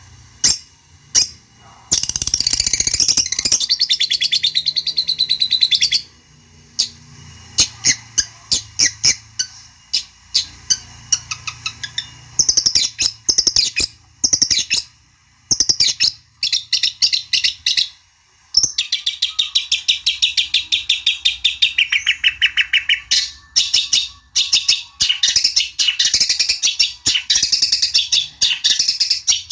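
Long-tailed shrike singing: long, rapid chattering runs of sharp notes, broken by separate sharp chips and shorter bursts.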